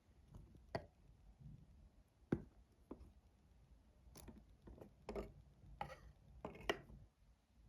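Faint, scattered light taps and clicks of small objects being handled, about a dozen irregular knocks with a sharper one about two seconds in and another near the end.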